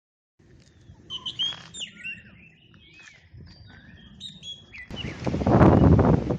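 Several birds chirping and whistling, with quick calls that slide up and down in pitch. About five seconds in, a loud rushing gust of wind buffets the microphone and drowns them out.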